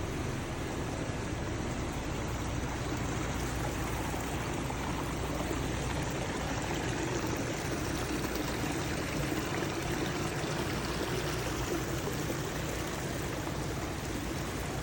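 Water running steadily, like a small stream or fountain pouring.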